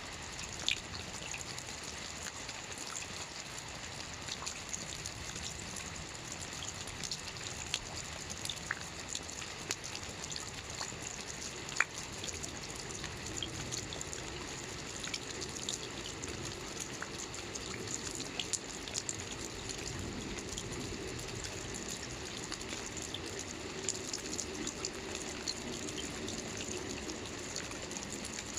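Light steady rain: an even hiss with many small drops pattering and ticking, one sharper drop about twelve seconds in, and a low trickle or run-off joining in about halfway.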